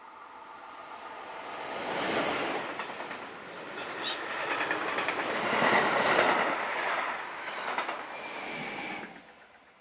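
A train passing close by on the main line, its wheels rattling and clacking over the rails. The sound swells over the first two seconds, stays loud, and drops away sharply about nine seconds in.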